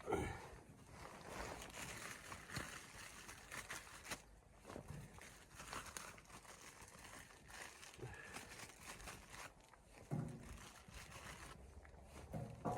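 Soft irregular rustling and crinkling with scattered light knocks and a few low thumps.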